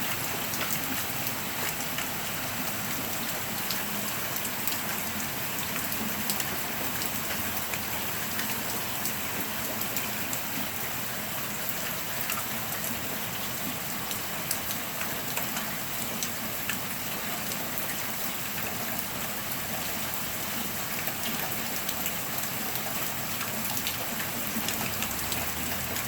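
Heavy downpour: steady rain hissing and pattering on hard surfaces, with many small drop ticks.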